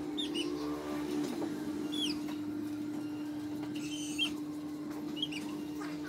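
Birds chirping: about five short, quick chirps scattered through, over a steady low hum.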